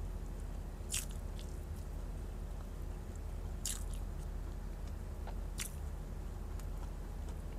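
A person chewing a mouthful of meat, rice and vegetables eaten by hand. Three crisp crunches stand out, about a second in, near the middle and about two thirds through, over a steady low hum.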